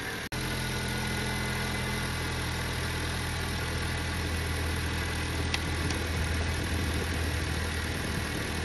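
Honda Civic's R18 1.8-litre four-cylinder engine idling steadily as it warms up on newly fitted 310 cc fuel injectors, an idle the owner calls a little rough and running a little lean. The sound cuts out for an instant just after the start.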